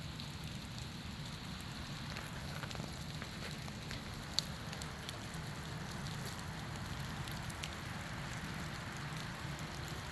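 Steady rain-like pattering with scattered light ticks, and one sharper tick about four seconds in: dripping and falling bits of ice from ice-coated trees.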